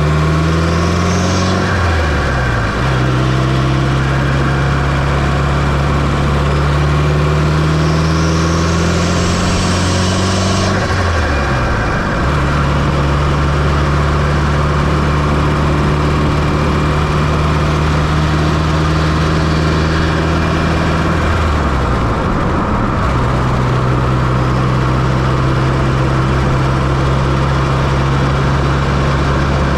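Fiat Coupe 2.0 16V turbocharged four-cylinder engine, heard close-up from the engine bay, pulling under load with its pitch climbing, then dropping sharply about two, eleven and twenty-one seconds in as it shifts up. A rising turbocharger whine builds from about seven seconds in and cuts off sharply at the shift near eleven seconds.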